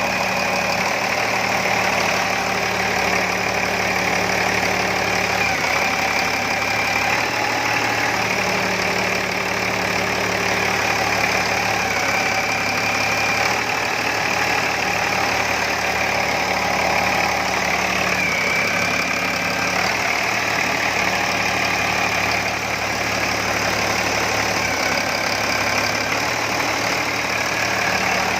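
Volvo engine idling steadily just after starting.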